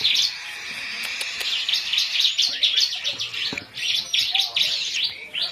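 Baby cockatiels squabbling, giving rapid harsh, raspy chirps one after another. The calls thin out for about a second near the start, then crowd together again.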